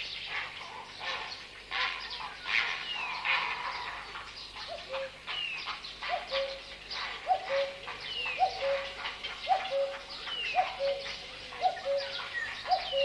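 Outdoor birdsong from several birds: a high call sweeping downward repeats about once a second among other chirps, and from about five seconds in a low short note also repeats about once a second.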